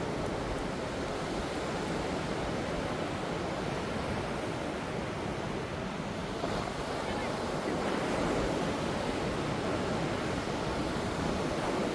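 Ocean surf breaking and washing on a beach, a steady rush of wave noise that swells a little in the second half, with wind buffeting the microphone.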